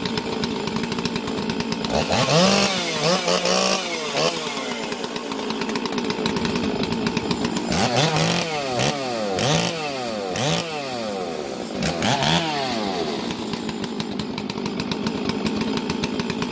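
Stihl two-stroke chainsaw idling and being revved in quick blips: a few blips about two seconds in, then a run of about five more a little past the middle, dropping back to idle between them.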